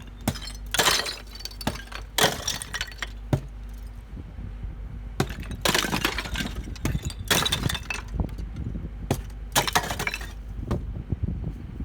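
Glass breaking and debris crashing during a building demolition: a string of sudden crashes, with the loudest bursts about a second in, near the middle and towards the end.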